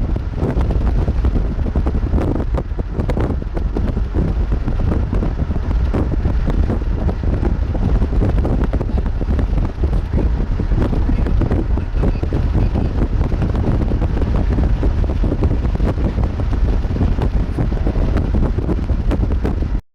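Wind buffeting the microphone: a loud, ragged low rumble with a hiss above it, which cuts off abruptly at the end.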